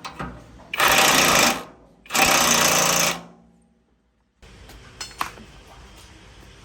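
A power tool run in two loud bursts of about a second each, a rapid hammering rattle, with a short pause between them. After a brief cut, only faint workshop background with a couple of small clicks.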